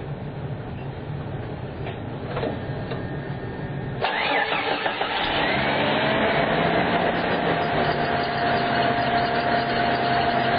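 Jeep Cherokee 4.0 straight-six idling. About four seconds in, the electric radiator cooling fan kicks in with a sudden rush of air, and its whine rises and then holds steady.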